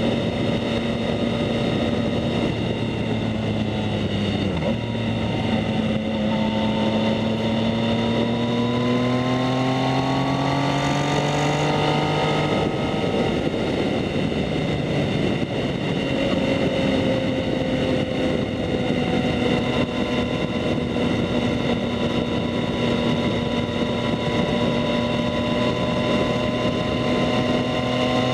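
Yamaha MT-09's 847 cc inline-three running through a Two Brothers S1R full exhaust while riding. The engine note drops about four seconds in, climbs for several seconds, falls back, holds a steady cruise and rises again near the end, all over a constant rush of wind and road noise.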